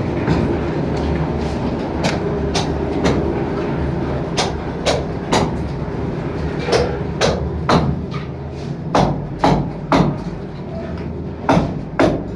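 A series of sharp knocks at an irregular pace, often in groups of two or three about half a second apart, over a steady low hum.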